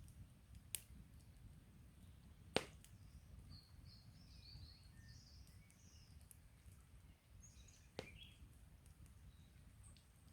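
Burning campfire wood popping sharply three times, the middle pop the loudest, while small birds chirp in quick runs of high notes in between, over a faint low rumble.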